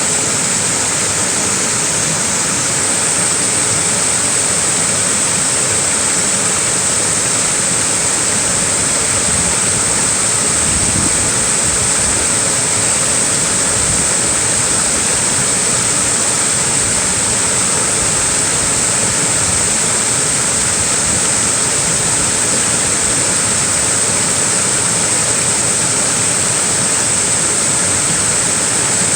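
Small waterfall pouring steadily: an even, unbroken rush of falling water with a strong hiss in the highs.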